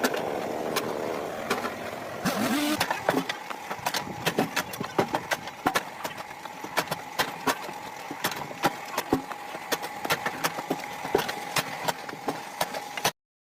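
An engine running, with many sharp, irregular clicks and knocks over it. A steady tone joins about halfway through, and the sound cuts off abruptly just before the end.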